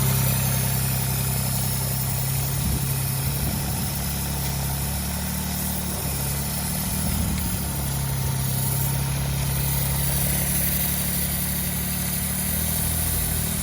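Citroën C1 engine idling with an intake air leak. The idle turns uneven for a few seconds in the middle and then settles: the erratic idle an intake air leak causes.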